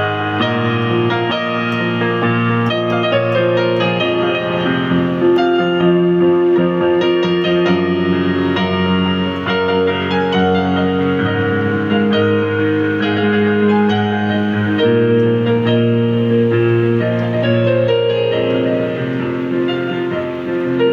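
Synthesizer keyboard playing a melody over held chords and a bass line.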